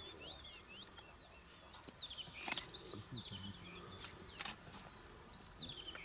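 Birds chirping in the background in quick runs of short, high, sliding notes, with two sharp clicks, one about two and a half seconds in and one near four and a half seconds.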